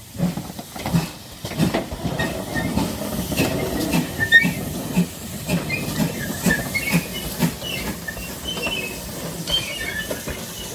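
Train wheels clacking rhythmically over rail joints, about two knocks a second, with short high squeaks mixed in.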